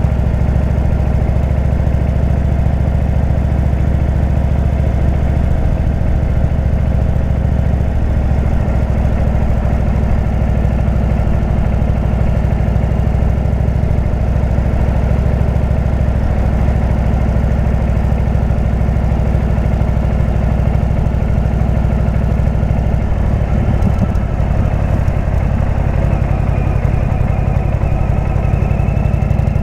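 Indian V-twin motorcycle engine with a Jekill & Hyde exhaust running steadily, its note shifting slightly about three-quarters of the way through, with a faint rising whine near the end.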